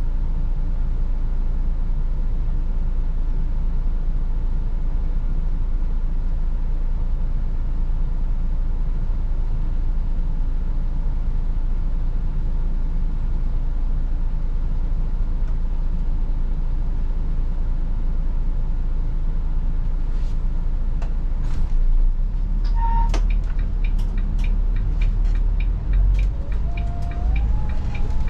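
Inside a Volvo 8900 city bus on the move: steady diesel engine and road rumble. About twenty seconds in, a regular ticking of about two clicks a second starts, and the rumble swells, with a brief tone and then a tone stepping upward in pitch near the end.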